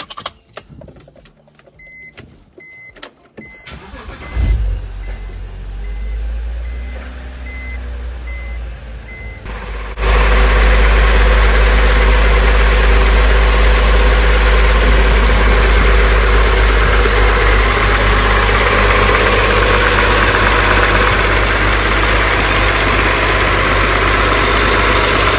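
BMW N55 3.0-litre turbocharged inline-six, swapped into an E46, starting up after a few clicks and a repeating beep. It catches about four seconds in and settles into a steady idle. From about ten seconds it is heard up close in the engine bay, much louder, idling evenly.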